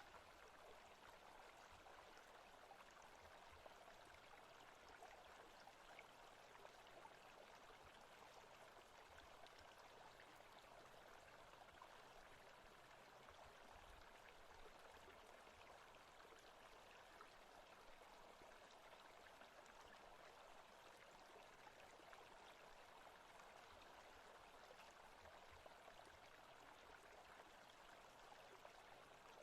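Faint, steady rush of flowing water from a forest-sounds ambience track, like a running stream.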